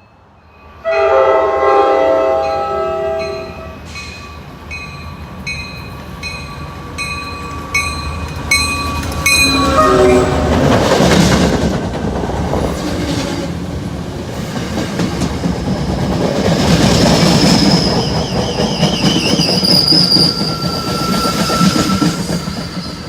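A train's horn sounds a chord for about three seconds, and a bell then rings about twice a second. Near the middle the train starts going past with a loud rush of wheels on rail, and high-pitched wheel squeal runs through the rest of the passage.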